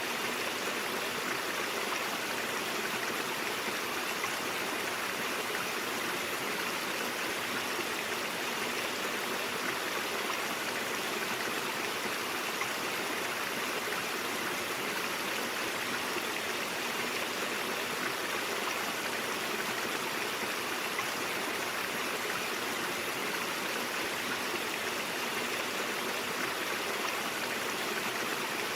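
A shallow stream running over rocks: a steady, even rush of flowing water with a light trickle, unchanging throughout.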